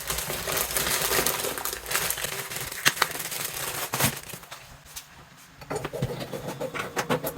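Handling of small faucet fitting parts: rustling and crinkling with a few sharp clicks, about three and four seconds in, and a brief quieter pause before the handling starts again.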